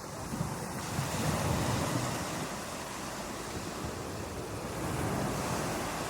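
Ocean waves breaking on a beach: a steady wash of surf that swells as a wave breaks about a second in, eases, and swells again near the end.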